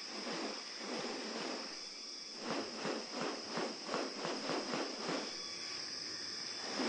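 Insects buzzing in a steady high chorus, and from about a third of the way in a quick, regular run of rasping strokes, about four a second, lasting some three seconds.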